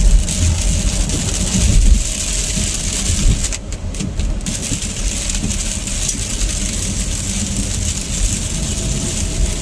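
Inside a moving car: steady engine and road rumble with a continuous hiss of tyres and rain on the wet road. The hiss drops away briefly about three and a half seconds in, then returns.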